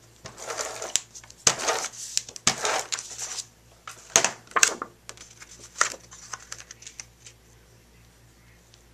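Adhesive being applied to a cardstock layer, with paper handling: a run of short rasping strokes and sharp clicks, irregularly spaced, that die away about seven seconds in.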